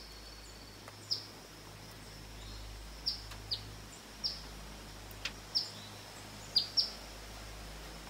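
Eastern phoebes giving short, sharp chip calls, each dropping quickly in pitch, about eight at irregular intervals over a faint steady high hum.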